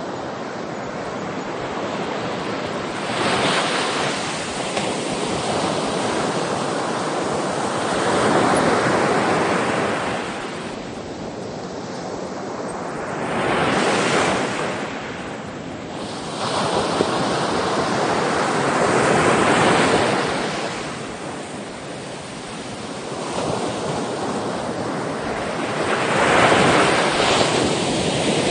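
Sea waves breaking and washing back in slow, repeated surges, one swell about every five or six seconds.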